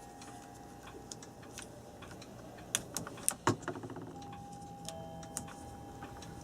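Hands working on an electric clock's wiring with electrical tape and wire nuts: scattered light clicks and taps, with a short cluster of sharper clicks and a brief rattle about three to four seconds in.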